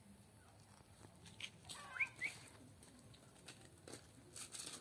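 Quiet yard background with a few short, high, rising bird chirps about two seconds in, and scattered faint clicks.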